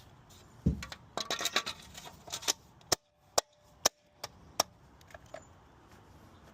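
Scattered sharp metallic clicks and knocks of hand tools and metal parts being handled, with a dull thump about two-thirds of a second in and a run of single loud clicks in the second half.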